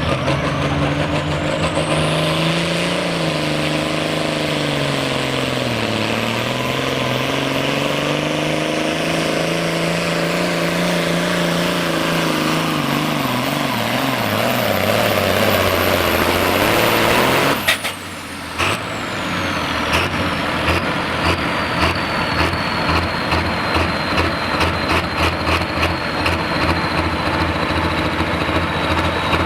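Turbocharged diesel pulling tractor running flat out under load down the pulling track, its engine pitch sagging about six seconds in and again near the end, with a high turbo whistle over it. About eighteen seconds in, the engine cuts off suddenly as the pull ends. The turbo whine winds down, and the engine settles into a loping, pulsing idle.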